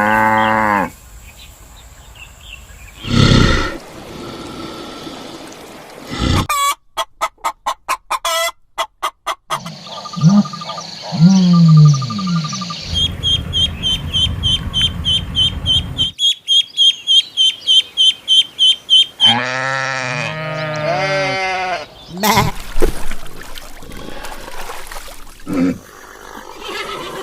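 A series of different animal calls, one after another, each a separate short clip. Near the middle comes a fast, high, repeated trill.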